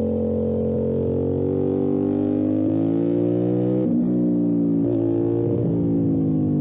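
Motorcycle engine running under load; the revs climb for about a second and a half, then drop sharply about four seconds in as a gear is changed, with another brief break in the note near five seconds before it runs on steadily.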